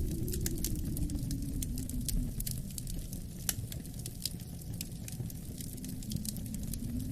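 Wood fire crackling with many sharp pops and snaps, over a low wind rumble that eases off in the middle and swells again near the end.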